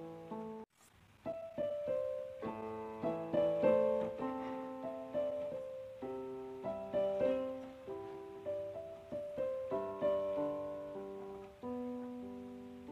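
Background piano music: a slow, gentle melody of chords and single notes, each ringing and fading. It breaks off briefly about a second in, then resumes.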